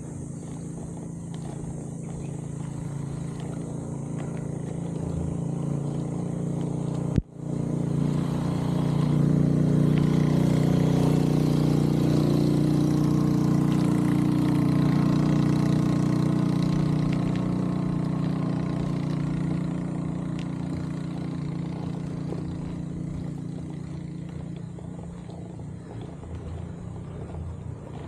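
A motor vehicle engine running steadily, growing louder over the first ten seconds or so and then fading slowly. A single sharp click comes about seven seconds in.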